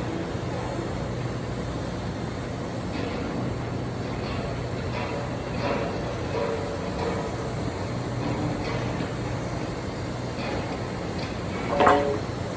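Steady low hum of running machinery, with faint voices in the background and a brief louder voice near the end.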